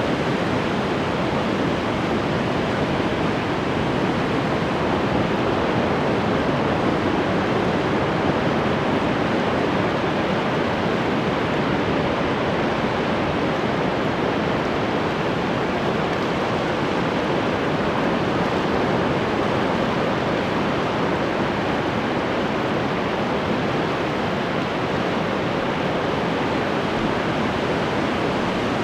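Ocean surf washing continuously: a steady, even rush of breaking waves with no distinct single swells or pauses.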